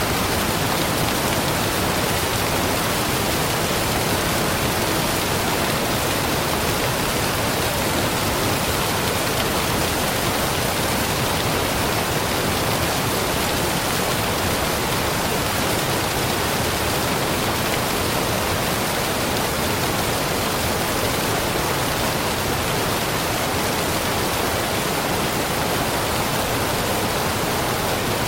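Waterfall pouring steadily, a dense, even rush of falling water with no change in level.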